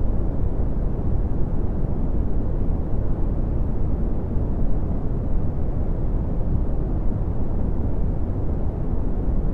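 Red (Brownian) noise: a steady, even hiss that is strongest in the bass and fades toward the higher pitches, with no changes or events.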